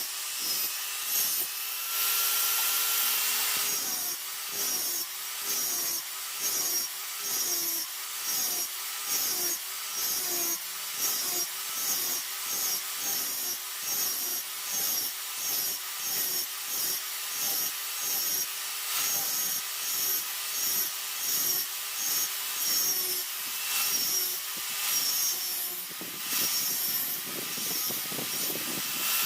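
Hand sawing in steady back-and-forth strokes, about two a second, the blade ringing with a rising and falling pitch on each stroke. A brief steady whine comes in about two seconds in.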